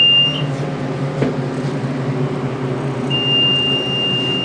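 KONE hydraulic elevator travelling up, its pump and motor giving a steady low hum under load, a ride the rider says struggles going up. A long, steady, high beep sounds at the start and again from about three seconds in.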